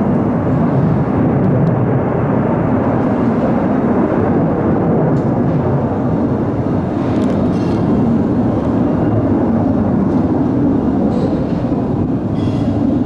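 Military fighter jet engines during takeoff: a loud, steady, low rumbling roar that holds without a break.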